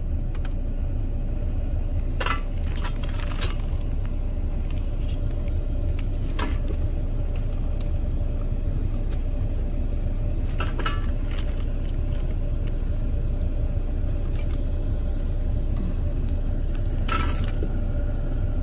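Steady low rumble and hum of an idling truck engine, with a few short clinks and rattles of items being handled in a small cab refrigerator.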